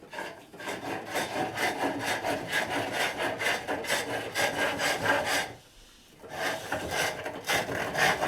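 Hook tool cutting into the spinning wooden cup blank on a pole lathe: a dense run of rapid scraping cuts that stops briefly about two-thirds of the way through, then starts again.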